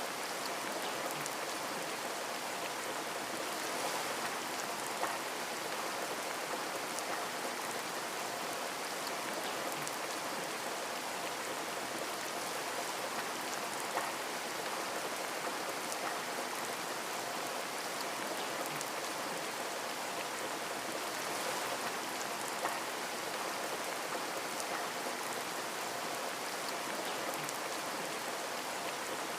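Steady rain falling on a window, an even hiss of drops, with a few louder single drop strikes standing out now and then.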